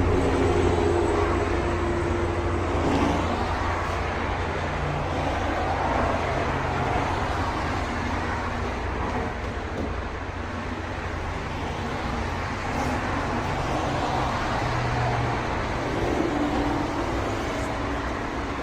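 A car running, with a steady low engine drone under broad road or traffic noise; the engine tone shifts in pitch a few times.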